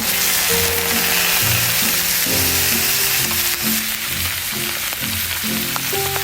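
Food sizzling steadily in a hot frying pan, over background music.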